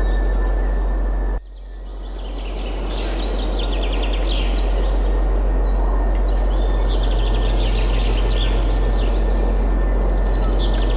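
Steady wind with songbirds chirping and trilling over it. The whole sound cuts out suddenly about a second and a half in and fades back up over the next few seconds.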